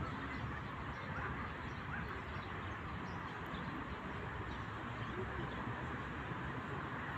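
Steady outdoor background noise with a low rumble, and faint scattered bird calls through it.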